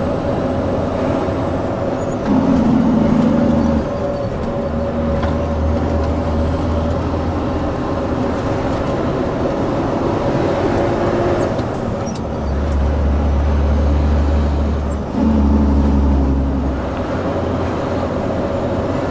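Heavy truck engine running steadily under way, growing louder for a second or two at a time about two seconds in and again in the second half.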